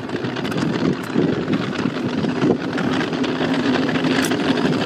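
Firework fountains spraying sparks: a steady noisy rush dotted with many small crackles, with wind on the microphone. A low steady hum joins in a little past halfway.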